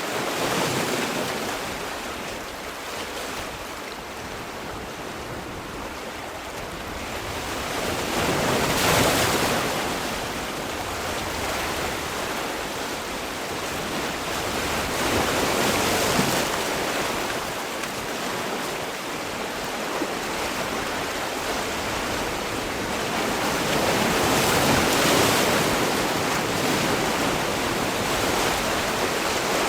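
Sea waves breaking and washing on the shore, a continuous rushing surf that swells to peaks about 9, 16 and 25 seconds in before ebbing again.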